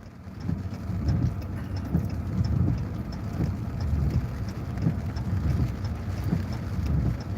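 Low, steady rumble of a car on the move, heard from inside the cabin, rising and falling a little as it goes.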